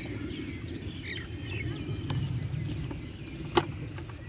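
Small birds chirping in short high calls over a steady low outdoor rumble, with one sharp click about three and a half seconds in.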